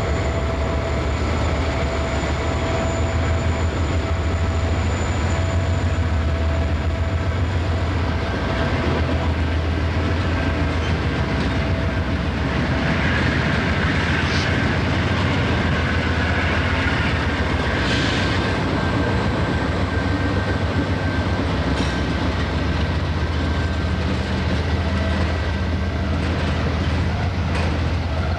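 Freight train rolling past, its cars' steel wheels clicking over rail joints over a steady low rumble, with a higher squeal for a few seconds midway.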